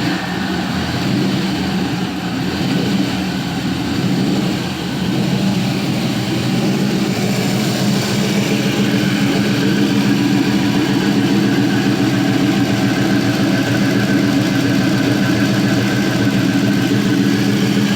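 Chevrolet 4.8L LR4 V8 running on an engine test stand just after a fresh start, idling. The idle wavers a little in the first few seconds, then settles to a steady note.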